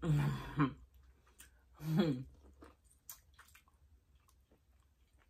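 Someone eating seasoned boiled corn on the cob: bites and chewing make scattered small wet clicks. Two short vocal murmurs come in the first two seconds.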